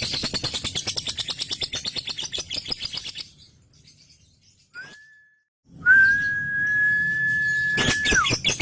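Male lovebird's 'ngekek' call: a fast, rattling chatter of rapid high notes that stops about three seconds in. After a short pause, a single long, steady whistled note is held for over two seconds and drops in pitch at its end.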